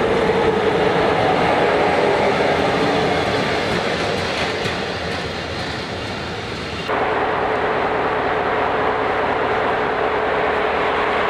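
NMBS/SNCB diesel locomotive 5519 running, a steady engine and rail noise. The sound changes abruptly about seven seconds in and loses its high end.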